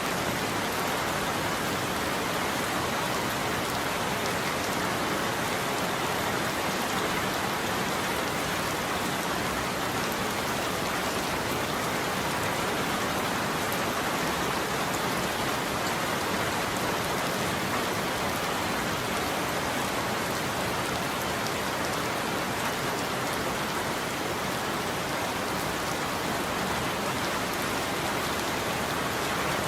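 Steady rain falling on a roof, an even patter-hiss without breaks or thunder.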